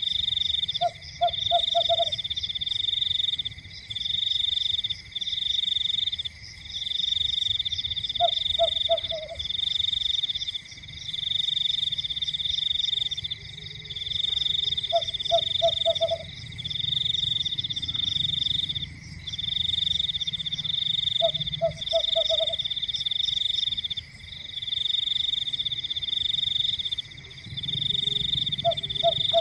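Frogs calling in chorus: a high, fast-pulsed trill in bouts of a second or so with short breaks, over a steady high hum. A lower croak of four or five quick notes comes back about every six or seven seconds.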